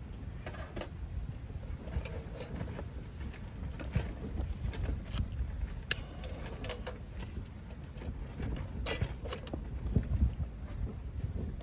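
Strong gusty wind rumbling low and unevenly on the microphone, with scattered light clicks and clinks of gear being handled.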